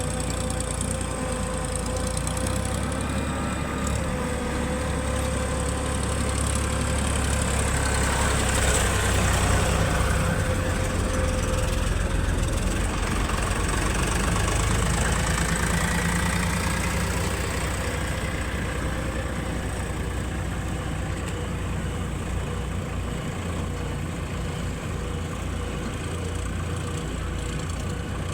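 Heavy diesel engine running steadily, growing somewhat louder for several seconds in the middle and then easing back.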